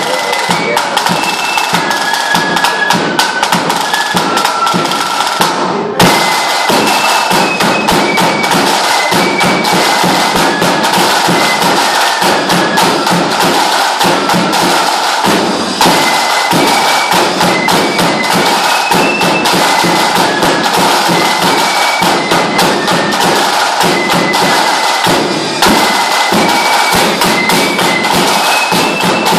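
Lambeg drum beaten with canes in a loud, rapid, continuous rattle of strokes, with a high melody of held notes playing over it. The sound jumps abruptly three times.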